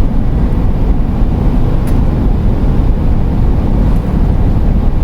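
Steady low rumble of road and engine noise inside the cab of a moving 2008 Pleasure-Way Ascent camper van.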